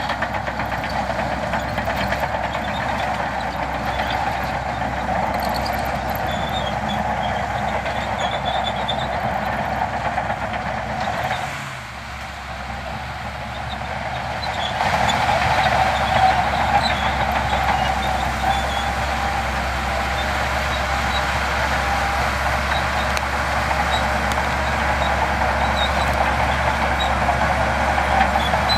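Heavy diesel earthmoving machinery running steadily under load. It eases off briefly about twelve seconds in, then grows louder again a few seconds later.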